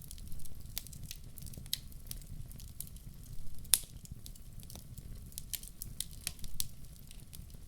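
Wood fire crackling: irregular sharp pops and snaps over a low steady rumble of flames, with one louder pop a little before the middle.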